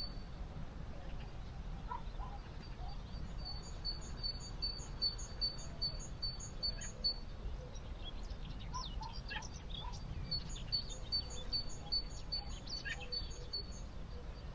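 A songbird singing a phrase of evenly spaced, repeated high notes, about three to four a second, twice with a pause between, while other birds chirp briefly. A steady low background noise runs underneath.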